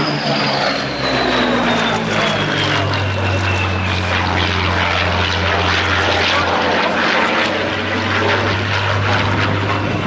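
Rolls-Royce Merlin V12 engine of a World War II propeller fighter flying past in a display. The engine note falls in pitch over the first few seconds as the aircraft goes by, then settles into a steady drone, running on limited boost.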